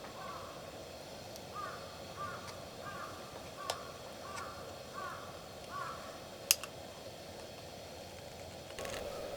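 A crow cawing over and over, about ten caws at a steady pace, stopping about six seconds in. A single sharp click about six and a half seconds in, and a few more clicks near the end.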